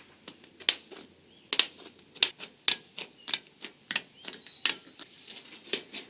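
Hand tin snips cutting sheet tin: a string of sharp, high metallic snaps at an uneven pace, a little under two a second.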